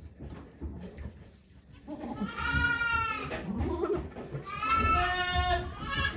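Goat bleating: two long, high calls about two seconds in and again near the end, with the start of a third just as it ends.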